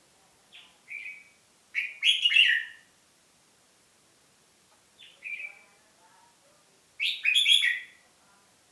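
A songbird singing short, loud phrases about five seconds apart, each preceded by a softer short call.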